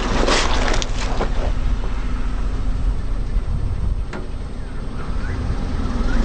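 Car engine running with a steady low rumble; in the first second a tyre rolls over something and crushes it with a dense crackling crunch. There is a single sharp click about four seconds in, and a few short squeaks near the end.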